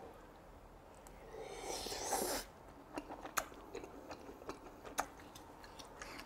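A person eating a forkful of rice cake in cream sauce: a short breathy noise about two seconds in, then quiet chewing with scattered small wet clicks.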